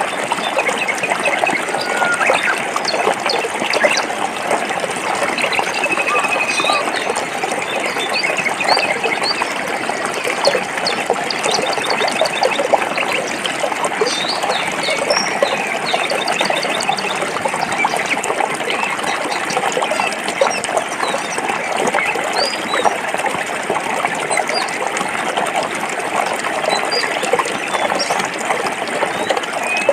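Stream water running over rocks in a steady rush, with frequent short bird chirps above it.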